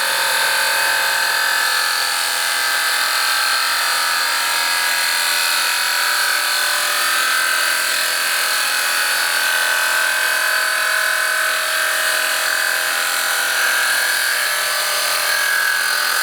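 An abrasive cut-off disc on an arbor, spun by a milling machine, grinding a slit into a metal holder: a steady high whine with a grinding hiss.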